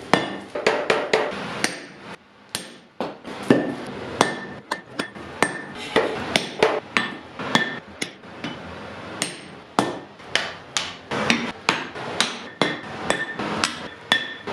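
A blacksmith's hammer striking metal on an anvil in an uneven run of blows, about two a second, each with a short metallic ring.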